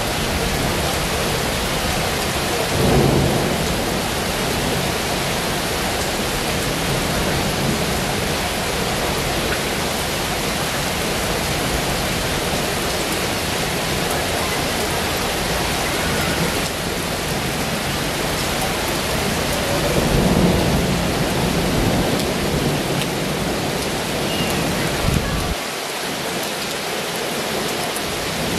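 Heavy rain pouring steadily in an even hiss, with two brief low swells of rumble, a few seconds in and about two-thirds of the way through.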